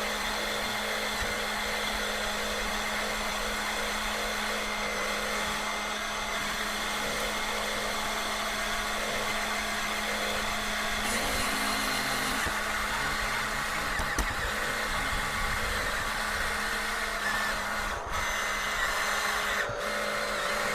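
Electric motors and plastic gearboxes of radio-controlled toy construction vehicles running, a steady whine with a faint pulsing underneath.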